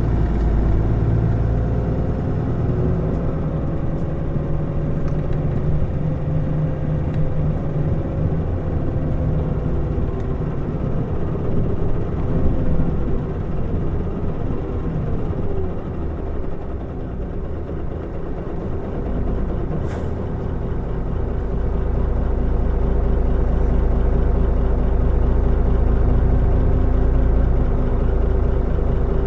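Mitsubishi Fuso Aerostar QKG-MP35FP city bus's six-cylinder diesel engine and drivetrain running as the bus drives. The pitch rises and falls through the first half. A sharp click comes about twenty seconds in, then a steady low engine rumble for the last third.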